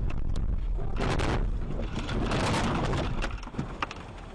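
Dashcam car audio: steady road rumble with two loud rough, crunching noise bursts, one about a second in and a longer one around two to three seconds in, plus scattered sharp clicks.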